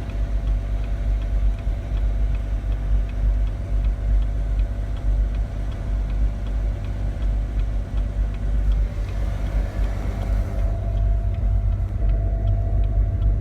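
2016 Chevrolet Camaro's 3.6-litre V6 running rough at a raised idle in park with no foot on the pedal, a steady low rumble with a faint regular ticking over it. The engine is hanging at around 2,000 rpm by itself and shaking the car, an abnormal high-idle fault.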